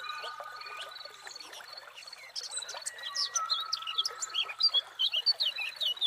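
Several birds chirping and whistling: long, steady whistled notes at first, then from about two seconds in a dense run of quick, high chirps, over a steady background hiss.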